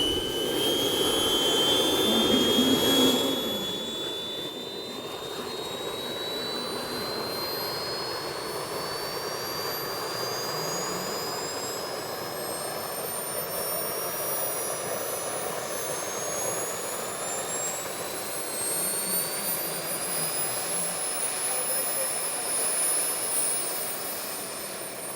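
AMT Olympus model jet turbine on a homemade jet pack running up, its high whine climbing slowly and steadily in pitch over a rushing jet noise as it is throttled up. The rush is loudest in the first three seconds, then settles to a steady level.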